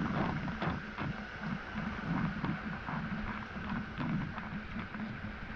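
Waterfall water rushing and splashing in a steady noisy wash, with a low rumble that comes and goes.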